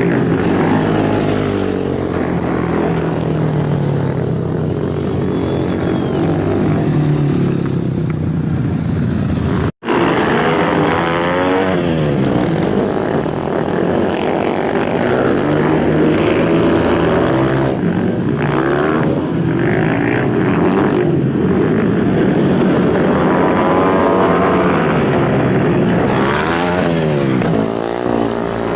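Several racing superbike engines revving hard and passing one after another, their pitch sweeping up and down as they go by. The sound cuts out for an instant about ten seconds in.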